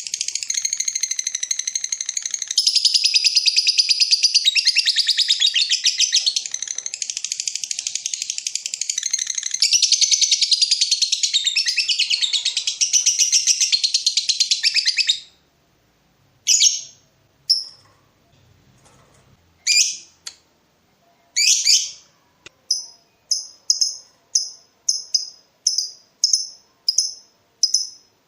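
Lovebird singing a long ngekek: an unbroken, rapid, high chattering trill that stops abruptly about halfway through, followed by a few sharp single calls and then a regular run of short chirps, nearly two a second.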